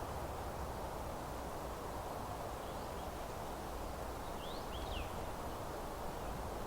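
Meadow ambience: a steady, even rushing hiss, with a few faint, quick downward-sweeping songbird chirps about four and a half seconds in.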